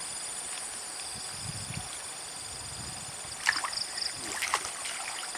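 Water sloshing and trickling, with a few sharp splashes in the second half.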